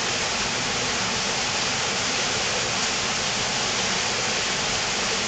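Steady rush of falling water from a cave waterfall, even and unbroken.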